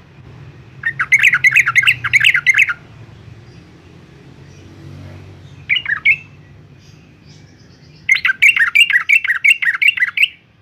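Yellow-vented bulbul singing: two bursts of rapid, chattering notes, each about two seconds long, one about a second in and one near the end, with a short phrase of a few notes in between.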